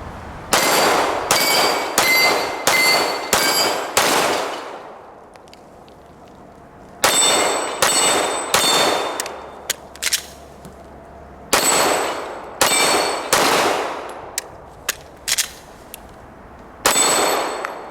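Strings of 9mm shots from a Glock 17 pistol, the first a quick run of about six. Steel targets ring with a high clang after the hits. There are pauses and small clicks between strings, where handloads with unseated primers failed to fire.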